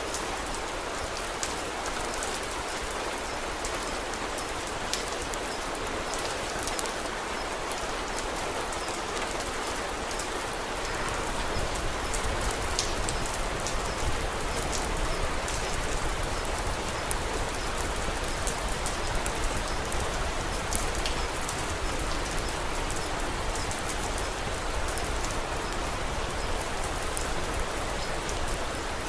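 Steady rain falling, with scattered sharp ticks. About eleven seconds in, a low rumble comes up beneath it and the rain grows slightly louder.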